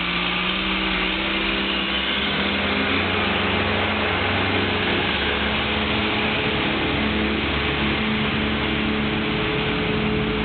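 Diesel engine of a backhoe or dump truck running steadily under a dense mechanical noise, its pitch shifting a few times as the revs change.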